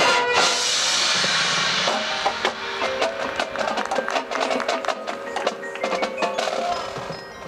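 High school marching band show music in a percussion-led passage. A cymbal wash rings over the first two seconds, then short woodblock-like taps and drum hits sound over held mallet-percussion notes.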